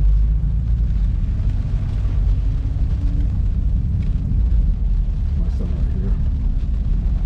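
Car engine and road noise heard from inside the cabin on track: a steady, loud low drone.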